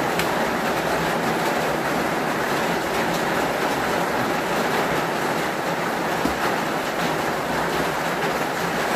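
Heavy rain pouring onto the roof, heard from inside as an even, unbroken rushing noise.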